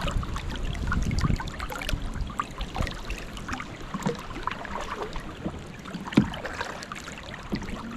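Water splashing and trickling around a canoe, with scattered small splashes from paddling and a sharper splash or knock about six seconds in.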